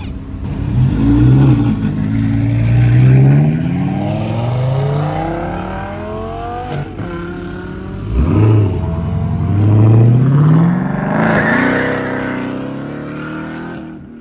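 A car's engine revving hard as it accelerates away, its pitch climbing, dropping at a gear change about seven seconds in, then climbing again before fading into the distance.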